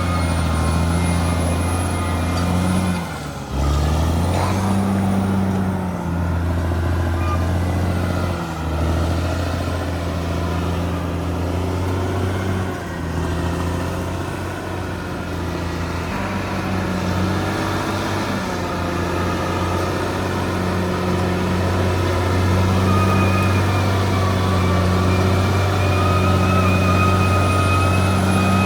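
A bulldozer's diesel engine runs under load, a steady low drone that dips briefly about three seconds in and then picks up again. A thin high whine sits above it throughout.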